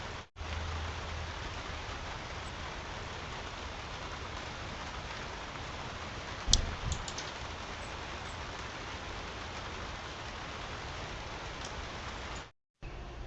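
Steady, even hiss like falling rain, with one sharp click about halfway through and a few faint ticks after it. The sound cuts out completely for a moment near the start and again near the end.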